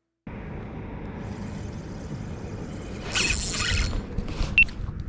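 Fishing reel and rod being worked from a boat: mechanical whirring and clicking over steady wind and boat noise, with louder hissy rushes from about three seconds in and a sharp click near the end.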